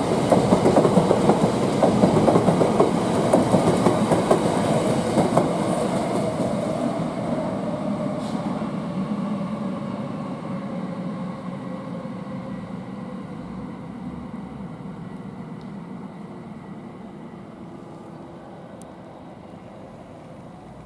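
London Overground electric multiple unit moving away along the track, its wheels clattering over the rail joints. The rumble fades steadily into the distance.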